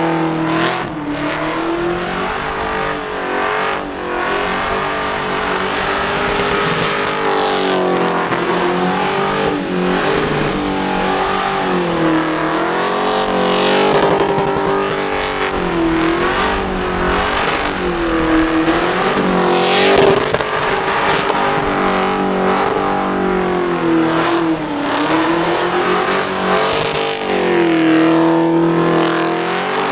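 Supercharged Holden Commodore engine held high in the revs during a burnout, its pitch swinging up and down in repeated waves as the throttle is worked, over the hiss of the rear tyres spinning on the pad.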